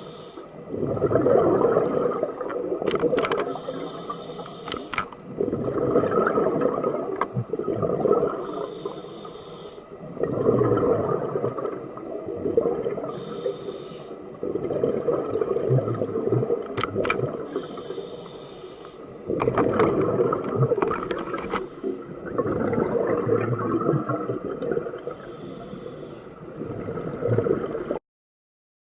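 Scuba diver breathing through a regulator underwater. Each short hissing inhale is followed by a longer rush of bubbling exhaust, repeating about every four to five seconds. The sound cuts off abruptly near the end.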